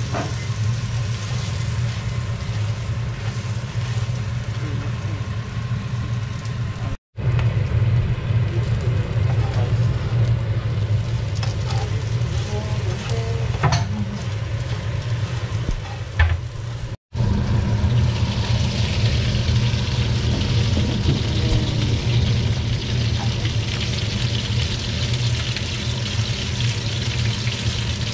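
Prawns sizzling in a frying pan as they are tossed with seasoning and fried shallot flakes, over a steady low hum. The sizzle grows louder in the second half, and the sound cuts out briefly twice.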